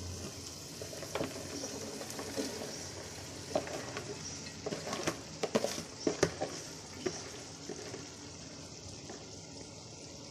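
Chicken sizzling steadily in oil in an aluminium pot, with a run of sharp clicks and knocks in the middle as shredded vegetables are tipped in from a bowl and the spatula hits the pot.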